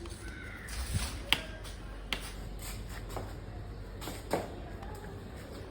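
Bicycle being ridden: a steady low rumble with a few scattered sharp clicks and knocks.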